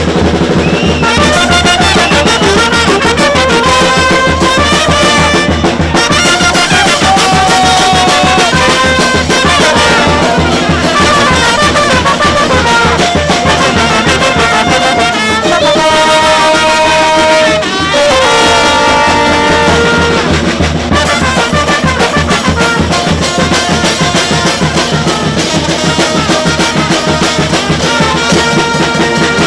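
Loud, upbeat brass band music: trumpets and trombones playing a melody over a steady drum beat.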